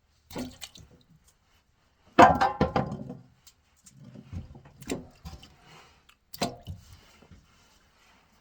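Hands handling freshly dug carrots: four short bursts of wet, squishing rustles, the loudest about two seconds in.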